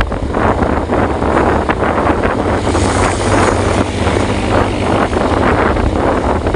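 Rain coming down steadily with wind, as a loud, dense rushing hiss full of small crackles, and a steady low rumble of wind on the microphone.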